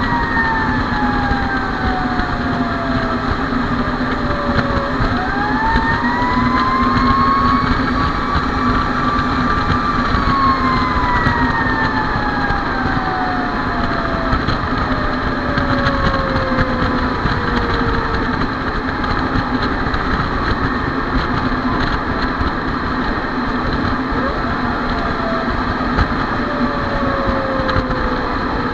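Fire engine siren wailing in slow glides. It falls, winds back up about five seconds in, then falls slowly again twice, over the steady noise of the truck's engine.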